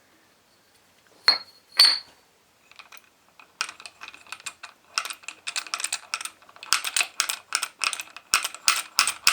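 Small metal starter-motor parts being handled: two sharp ringing metallic clinks about a second in, then a long run of quick clicks and rattles.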